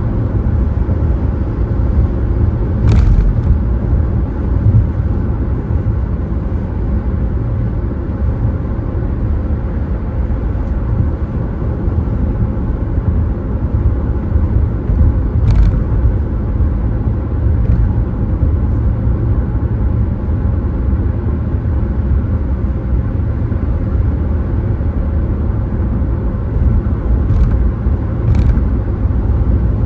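Car driving along, a steady low rumble of road and engine noise, with a few brief sharp clicks scattered through it.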